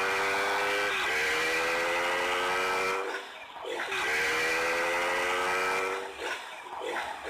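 Motorcycle engine pulling under hard throttle, its pitch climbing steadily, with a short dip about a second in. It drops off near three seconds, then climbs again from a lower pitch for about two more seconds before easing off.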